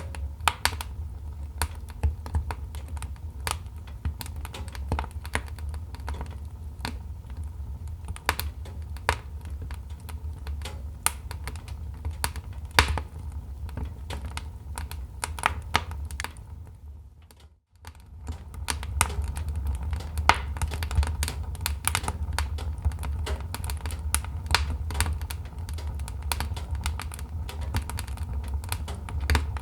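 Wood fire crackling and popping in a fireplace: dense, irregular snaps over a low steady rumble of flame. The sound fades out briefly about halfway through and then fades back in.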